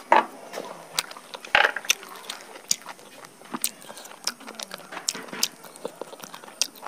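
Close-miked chewing and biting of roasted chicken, a run of small wet clicks with two louder bursts in the first two seconds.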